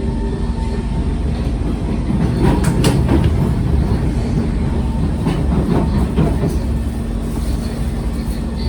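Kawasaki C151 metro train running along the track: a steady rumble under a motor hum, with clusters of clickety-clack from the wheels about two and a half seconds in and again around five to six seconds.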